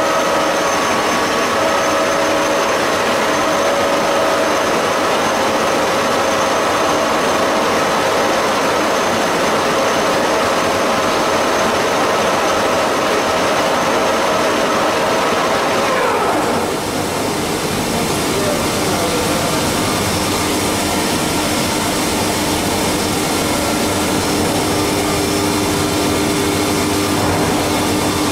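Haas CNC mill running, machining a cam on a fourth-axis dividing head: a steady whine over constant machining noise. About two-thirds of the way through, the whine falls in pitch as the spindle slows and the hiss drops, and a lower steady hum carries on.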